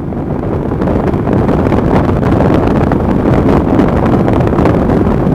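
Wind buffeting a helmet-mounted microphone over the running of a Kawasaki GPZ500S parallel-twin motorcycle engine on the move, a steady rush that grows louder over the first second or so.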